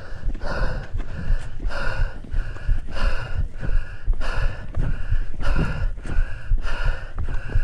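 A person's hard, rhythmic breathing from exertion on a steep uphill trail run, about two breaths a second, with wind rumbling on the microphone.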